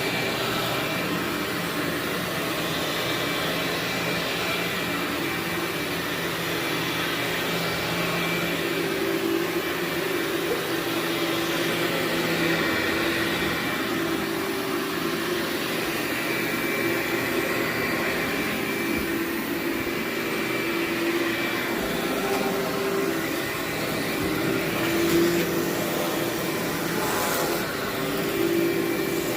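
Vacuum cleaner running steadily on carpet: a constant motor hum and whine over airflow noise, swelling slightly now and then.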